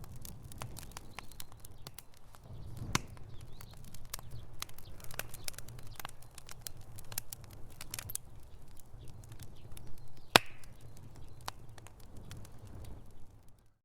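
Wood fire crackling in a fireplace: irregular pops and snaps over a low rumble, with one sharp, loud pop about ten seconds in. The crackle dies down briefly just before the end.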